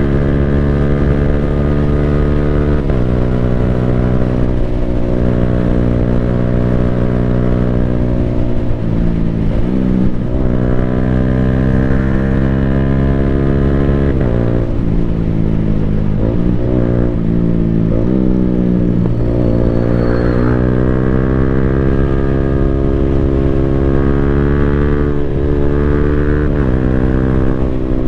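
Yamaha Sniper 155R single-cylinder engine running hard through an Akrapovic full-system exhaust while riding. Its note holds steady and then drops sharply at gear changes several times, with a few stretches where the revs fall and climb again.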